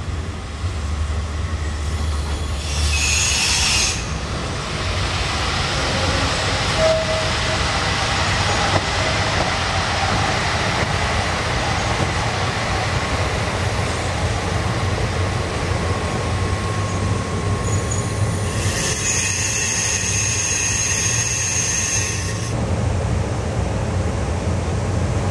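A train hauled by the JNR Class EF58 electric locomotive EF58 157 rolls past, its wheels rumbling steadily on the rails. The wheels squeal high twice, briefly about three seconds in and for about four seconds later on.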